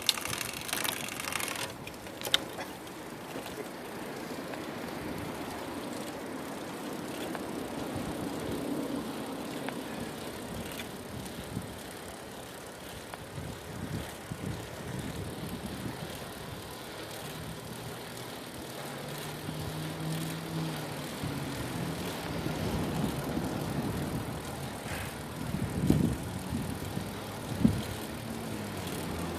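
Bicycle riding along: steady tyre and wind noise, with a few sharp clicks in the first couple of seconds. A low steady hum comes in over the last third.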